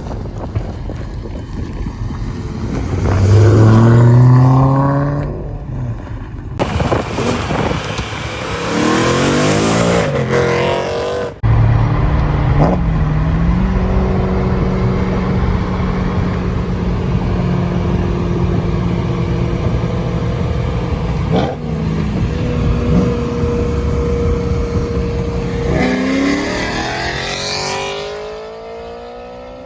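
Car engines revving hard, the engine note rising and falling several times, with a long stretch of steady engine drone in the middle and another climbing rev near the end.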